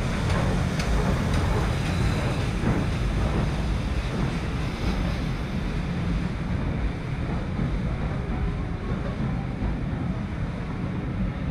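A steam-hauled passenger train, led by pannier tank locomotive 7714, rolling slowly into a station platform: a steady low rumble of the locomotive and coaches moving along the rails.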